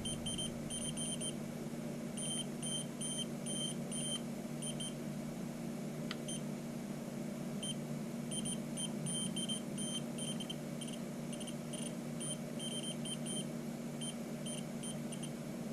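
Short high electronic beeps from a Geeboon TC22 soldering station, coming in irregular runs of quick beeps, over a steady low hum.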